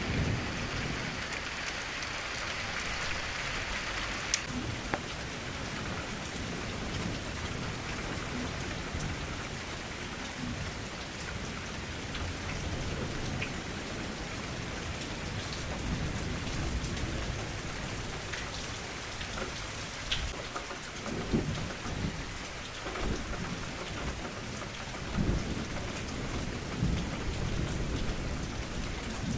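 Steady rain falling, with scattered crisp drop ticks. Low rumbles of distant thunder come at the start and again in the second half.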